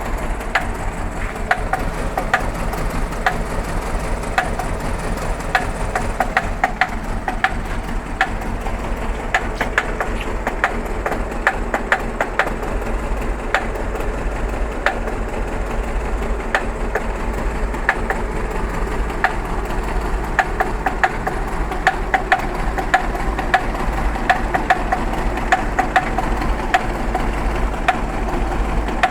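Fiat Bravo engine idling at a raised idle with a steady low rumble, broken by frequent sharp, irregular 'pac' ticks; the engine is shaking as it runs.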